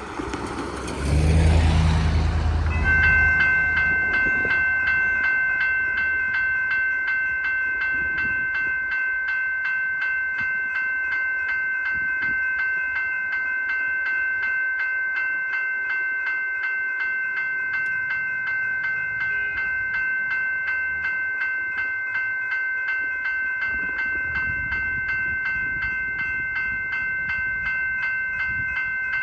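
Level crossing warning bell ringing steadily with fast, even strokes as the crossing activates. In the first three seconds a loud rush of sound passes close by.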